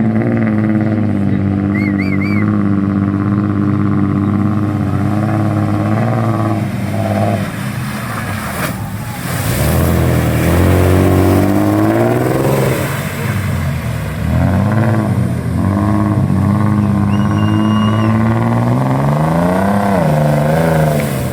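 Off-road 4x4's engine running hard, its pitch holding steady at first, then rising and falling as it revs repeatedly. There is a brief rush of noise about nine seconds in.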